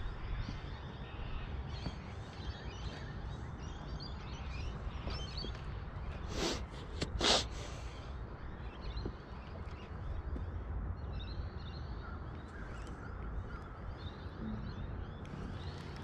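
Riverbank ambience: scattered faint bird calls over a steady low rumble, with two short rushing bursts a little under a second apart about halfway through.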